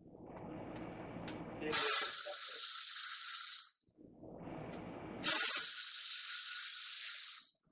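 Two bursts of pressurised spray hissing, each about two seconds long, the second starting about five seconds in. Between them come quieter handling noises.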